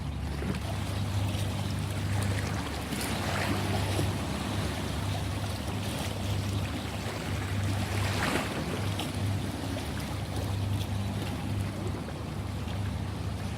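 Ocean waves washing, with two stronger surges about three and eight seconds in, over a steady low hum.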